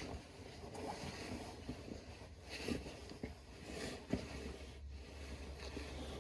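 Faint rustling and scattered light clicks and knocks of someone moving about and handling tools, over a low steady hum.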